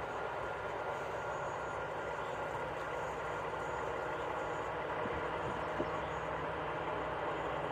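Train rolling past with a steady, even rumble of wheels on rail.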